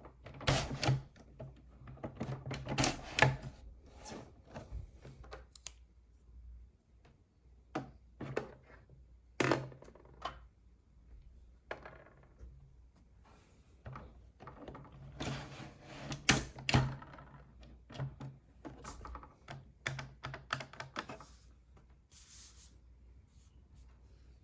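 Small plastic toy pieces being handled and set down on a hard surface: irregular clicks and clacks that come in clusters with short quiet gaps between.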